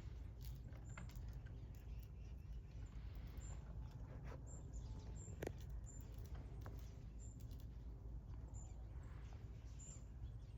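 Small birds chirping faintly, short high chirps repeated about once a second, with a few faint clicks and a steady low outdoor rumble underneath.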